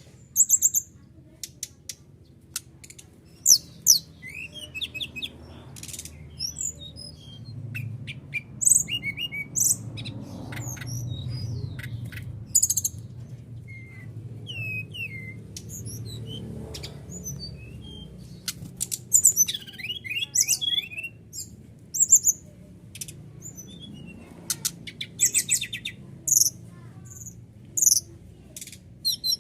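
Brown-chested jungle flycatcher (SRDC) singing: a run of short, high chirps, whistles and quick trills, with a low hum underneath in the middle stretch.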